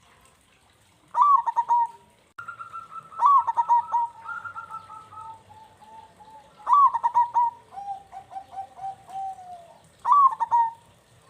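Zebra doves (perkutut) singing: four loud cooing phrases, each opening with a swooping note and running into a quick string of staccato coos, with softer cooing and a rippling trill from another dove in between.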